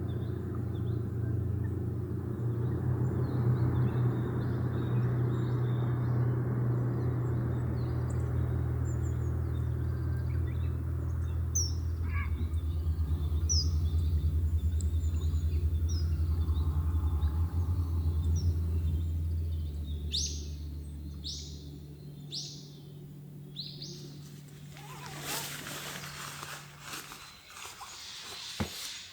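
Small birds chirping in short, rising calls over a steady low hum that cuts out about two-thirds of the way through; near the end comes a brief rush of noise.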